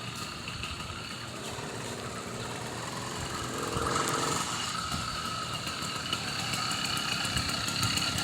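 Small two-stroke engine of a 79cc motorized bicycle running at a distance, growing gradually louder from about three seconds in as it comes closer, with a steady whine.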